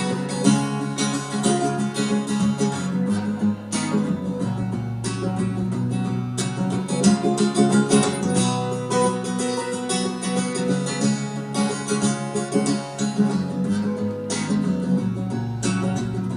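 Acoustic guitar strummed in an instrumental break of a song, a steady strumming rhythm with no singing.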